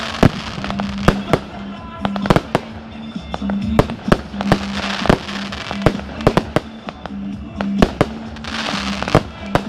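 Aerial fireworks going off in a dense, irregular run of sharp bangs, about a dozen or more, with stretches of hissing crackle between them. Music plays underneath.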